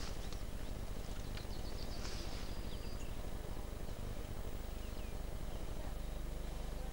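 Small birds chirping faintly, a quick run of high chirps in the first couple of seconds and a few short falling calls later, over a steady low hum.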